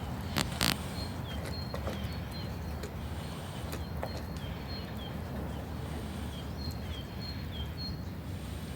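A small bird repeating short, high chirps over a steady low rumble of outdoor noise. Two sharp clicks about half a second in.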